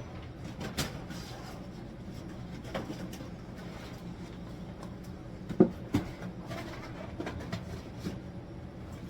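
A few sharp knocks and clunks of groceries and containers being handled and put away in a kitchen, the loudest pair about halfway through, over a steady low hum.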